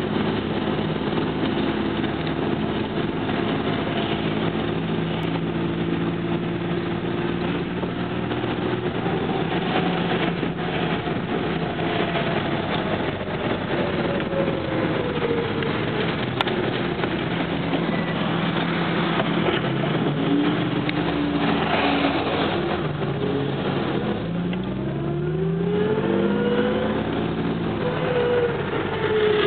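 Lancia Aurelia B21's V6 engine running steadily while driving, heard from inside the cabin; about three quarters of the way through the revs climb as it accelerates.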